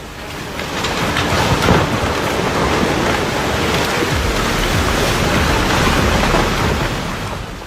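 Dense, even patter of water, swelling up over the first two seconds and fading away near the end.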